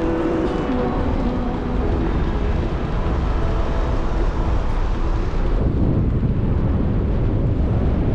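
Wind buffeting the microphone, a steady low rumble. A faint humming tone fades out about a second in, and the rushing loses its higher hiss about halfway through.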